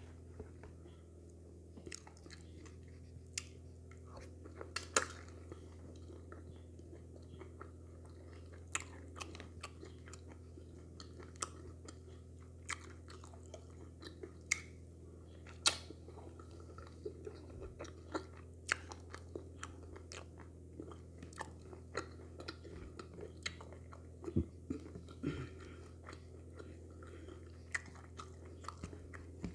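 Close-miked chewing and wet mouth clicks as a person eats fish in okra soup by hand. The clicks come at irregular intervals over a steady low hum.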